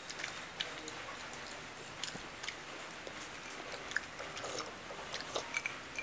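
Chewing and small wet mouth clicks from people eating, with scattered light taps. A faint steady hiss and a thin high whine run underneath.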